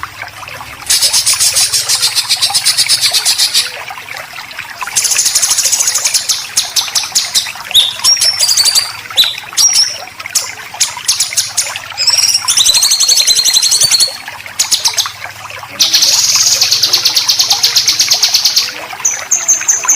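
Songbird besetan: long bursts of fast, harsh rattling notes, each about three seconds, starting about a second in, again around five seconds and again past the middle. Between them come short whistled notes that slide up and down in pitch.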